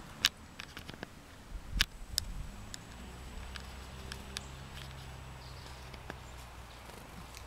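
Chickadees coming to a hand of sunflower seed: scattered sharp small clicks and taps, with a faint low hum from about three seconds in.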